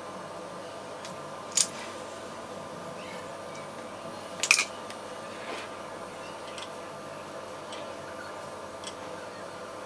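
A few sharp clinks of kitchen utensils or dishes, the loudest a quick double clink about halfway through, over a steady background hum.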